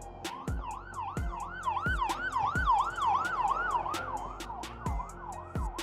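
A siren in a fast rise-and-fall yelp, about three cycles a second, starting just after the opening and fading near the end. A steady beat of clicks and low falling thuds runs underneath.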